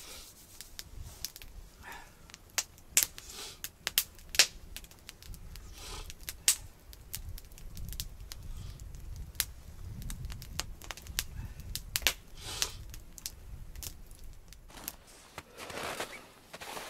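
Wood campfire crackling, with irregular sharp pops and snaps over a low steady rumble of the flames. There is a brief rustle near the end.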